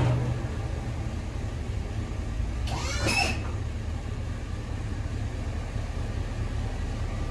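Pickup truck engine idling with a steady low rumble, and a brief squeal that rises and falls about three seconds in.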